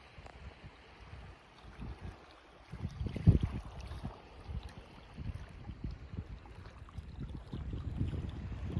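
Small waves washing on a sandy beach, with irregular gusts of wind buffeting the microphone. The loudest surge comes about three seconds in.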